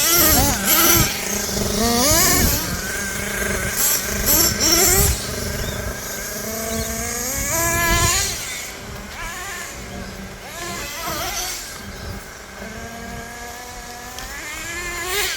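Small two-stroke glow engines of two nitro RC monster trucks, revving up and down over and over as they are driven, with their whines overlapping. The loudest surges come in the first half.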